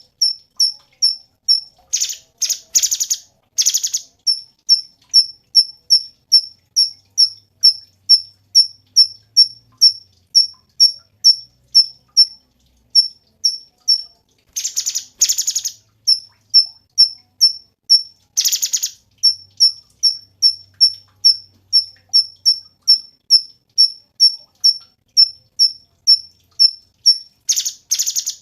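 Cucak cungkok singing: a steady run of short, high chirps, about two a second, broken a few times by brief rapid rattling trills.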